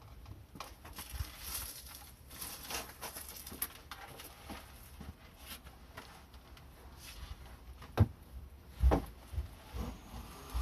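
Scattered clicks and knocks of tools and parts being handled during work on a car's exhaust muffler, with two louder knocks about eight and nine seconds in.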